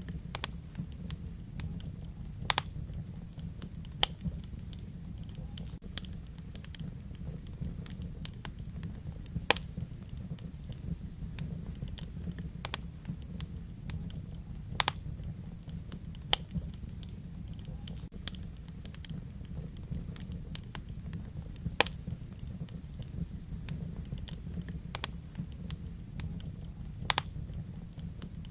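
Wood fire crackling in a fireplace: a steady low rumble of burning with irregular sharp crackles and a few louder pops from the burning logs.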